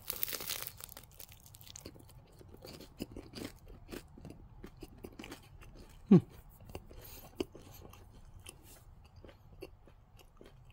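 A person biting into a soft pretzel with a crisp crust, a crunch in the first second, then chewing with small wet mouth clicks. About six seconds in there is a brief low falling hum from the throat.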